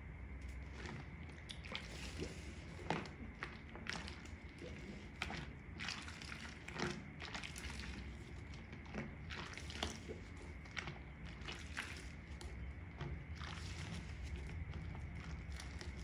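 Wet makeup sponge squeezed and squished in soapy water, making irregular wet squelches and sloshes.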